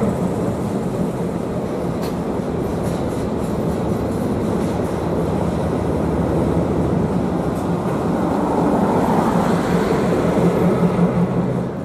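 Passenger train rolling steadily beneath an overpass, its cars rumbling over the rails with some light clicking. The hum of a diesel locomotive engine grows louder over the last few seconds as the trailing locomotive passes underneath.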